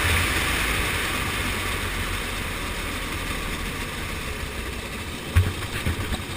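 Go-kart engine noise that slowly fades, with a sharp thump about five seconds in and a few smaller knocks after it.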